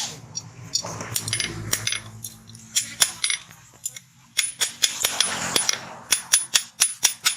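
Blacksmith's hammer striking steel on an anvil, each blow a sharp ringing clink. The blows come unevenly at first, then about four seconds in settle into a quicker, even run of roughly three a second.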